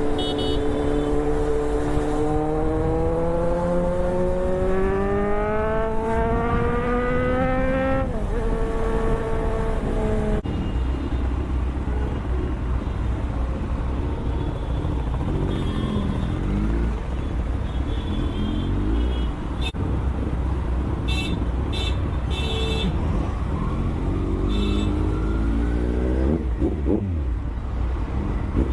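Superbike engine climbing steadily in pitch for about eight seconds as the bike accelerates, with a drop around a gear change. The pitch then levels off into a steady rumble and rush of wind while riding, with another short climb near the end.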